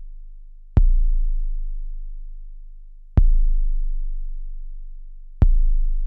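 Deep sub-bass drum sample played back through an Akai MPC sampler: three hits a little over two seconds apart, each a sharp click followed by a very low, pure boom that slowly fades away.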